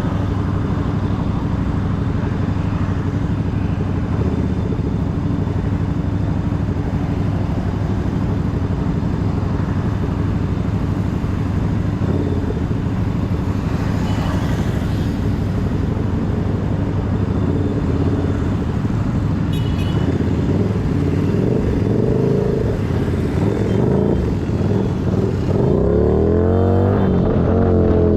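Keeway SCR 250's 250 cc V-twin engine with a Racefit free-flow exhaust, running steadily. Near the end its engine speed rises and falls several times.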